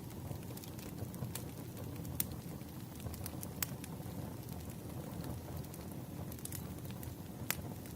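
Campfire crackling: sharp, irregular pops and snaps over a steady low rumble, one pop standing out near the end.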